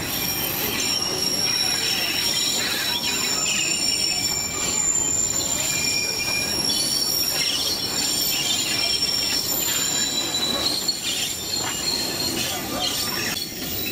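Narrow-gauge tourist train running along the line, a steady rolling rumble with several high, drawn-out squeals of steel wheels on the rails.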